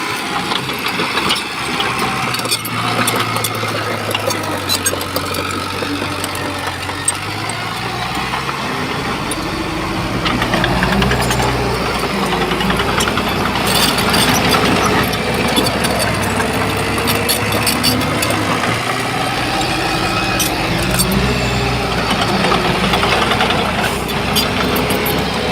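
Heavy earthmoving machine's diesel engine running under varying load, getting louder about ten seconds in, with scattered clanks and rattles of metal.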